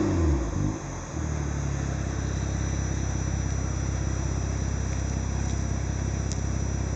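BMW X3 35i's turbocharged straight-six, breathing through a Super Sprint aftermarket exhaust, dropping back from a rev. After about a second it settles into a steady idle with an even low pulse.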